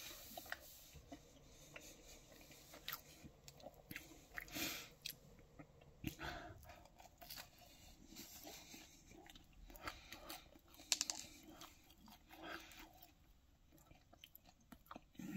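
A person chewing a mouthful of pizza: faint chewing with scattered small clicks, the loudest about two-thirds of the way through.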